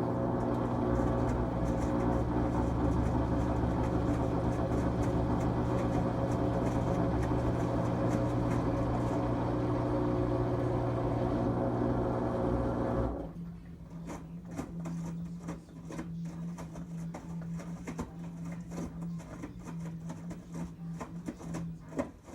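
2006 LG Tromm WD-CR101C front-loading washing machine running a quick-wash cycle: a loud, steady machine hum that cuts off suddenly about 13 seconds in, then quieter running with a steady low tone and irregular light knocks and ticks.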